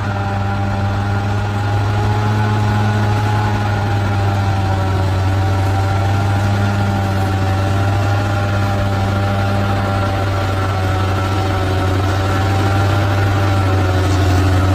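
Bulldozer's diesel engine running at a steady pitch, a deep hum with a thin whine above it.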